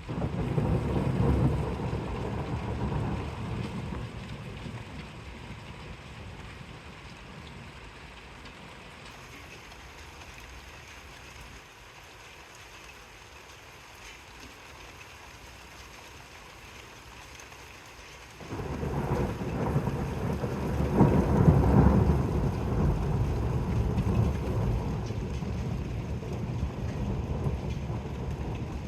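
Thunder rumbling during a light rain shower: one roll right at the start that fades away over several seconds, then, about two-thirds of the way through, a second, louder rumble that starts suddenly and rolls on to the end.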